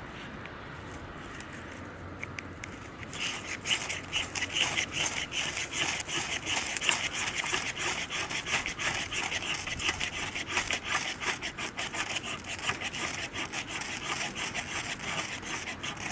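Saw cutting through wood with fast, even back-and-forth strokes, starting about three seconds in.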